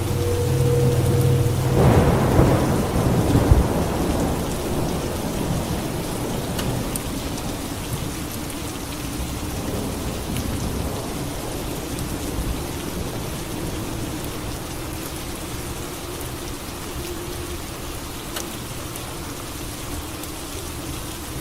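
Thunderstorm: steady rain falling, with a clap of thunder about two seconds in that rumbles for a couple of seconds and dies away, leaving the rain to go on more quietly.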